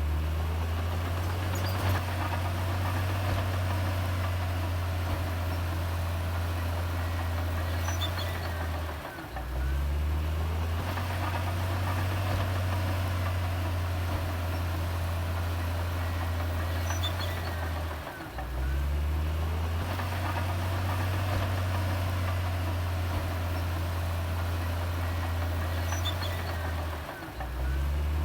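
Heavy diesel earthmoving engine running with a steady low drone. It dips briefly and rises back in pitch three times, about every nine seconds.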